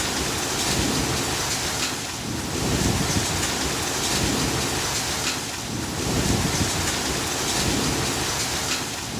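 Heavy rain pouring steadily in a storm, swelling and easing every few seconds, over a low rumble.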